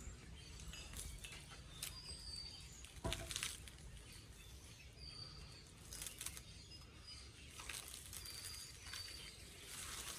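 Faint outdoor ambience with a bird giving a few short, high chirps a second or two apart, and several brief sharp knocks or rustles, the loudest about three seconds in.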